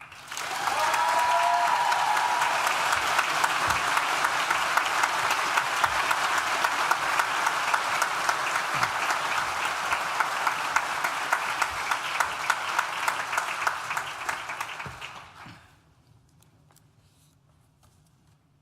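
Audience applause, a steady dense clapping that starts as a speech ends and dies away after about fifteen seconds.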